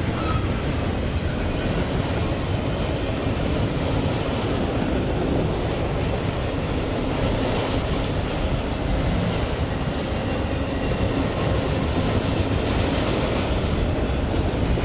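Freight train rolling past, a steady, unbroken noise of steel wheels on the rails.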